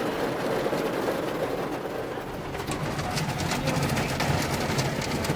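Automatic car wash tunnel equipment heard from inside the car: spraying water and wash brushes working over the windshield and body, a steady rumbling wash with rapid patter against the glass from about halfway through.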